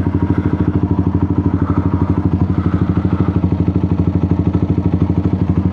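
125cc motorcycle engine idling steadily, with an even, rapid pulse.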